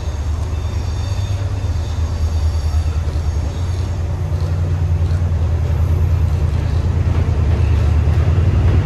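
Diesel train engine running with a steady low throb, growing gradually louder. A faint high whine is present over the first few seconds.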